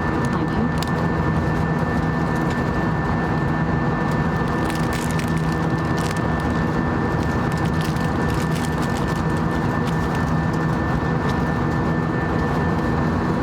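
Steady drone of an Airbus A320's engines and rushing air heard inside the cabin, with a constant hum and a few light clicks.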